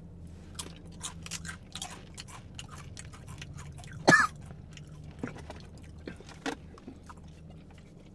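Close-up crunching and chewing of a Paqui Haunted Ghost Pepper tortilla chip: a run of short, sharp crunches in the first few seconds, then sparser chewing. A brief, loud vocal sound falling in pitch breaks in about four seconds in, over a faint, low, steady hum.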